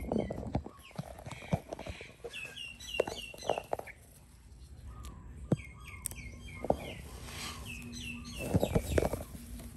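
Birds chirping: two quick runs of short, high, falling chirps, one about two to four seconds in and another near the end. Scattered soft knocks and rustling sit under the chirps.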